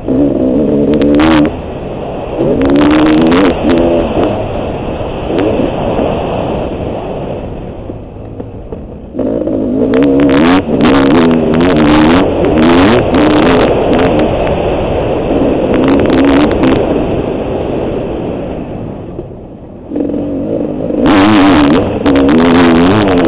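Honda CR500 two-stroke single-cylinder engine revving hard and easing off repeatedly around a motocross track. Twice, about eight and nineteen seconds in, it falls away on a closed throttle and then pulls hard again.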